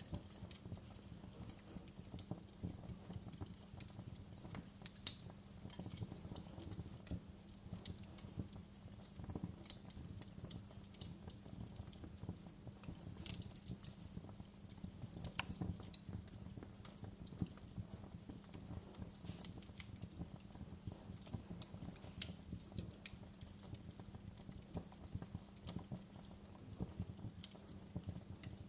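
Wood fire in a fireplace crackling, with irregular small snaps and pops over a steady low rumble; one sharper pop about five seconds in.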